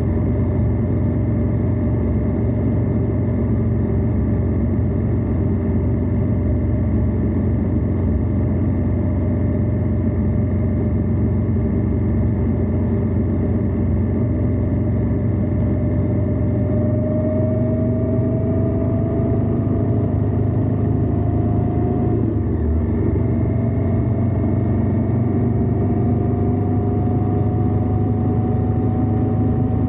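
Indian Scout V-twin motorcycle engine running steadily at road speed, heard close from low on the bike. Its pitch climbs gradually through the second half as the bike picks up speed.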